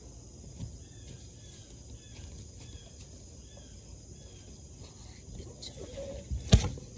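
Outdoor ambience of a bird giving a series of short, repeated chirps over a steady high insect drone, with one sharp thump about six and a half seconds in.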